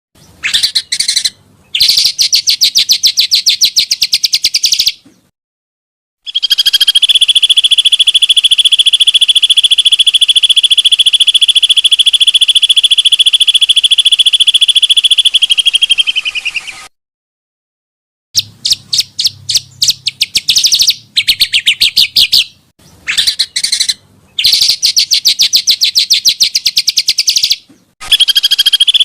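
Small songbirds giving very fast, harsh chattering trills in bursts of a few seconds, and one long unbroken rolling trill lasting about ten seconds. The bursts start and stop abruptly with silent gaps between them: recordings spliced together as a bird-song training track.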